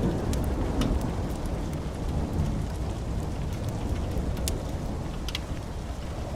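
Steady rain with a low, rolling rumble of thunder underneath, and scattered sharp crackles of a fireplace fire.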